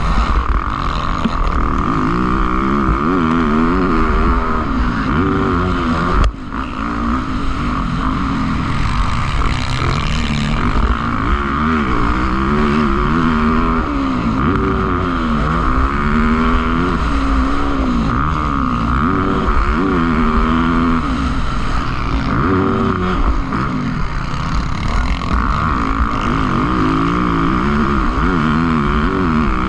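Motocross bikes racing, their engines revving up and falling back again and again as they accelerate around the track. There is one sharp knock about six seconds in.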